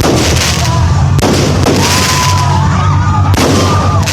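Aerial fireworks going off in quick succession, a fresh loud burst about a second in and another a little past three seconds, each trailing off in a long hiss of noise.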